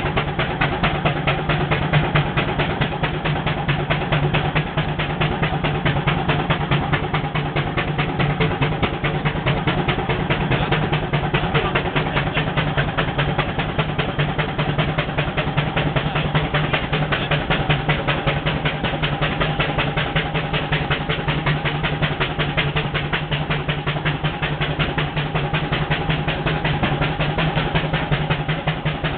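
Wallis & Steevens steam traction engine working under load, hauling a trailer up a hill: a steady, rapid, even beat that holds without a break.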